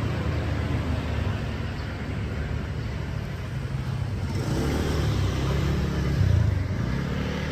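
Street traffic: vehicle engines running with a low rumble, one passing close and loudest about six seconds in.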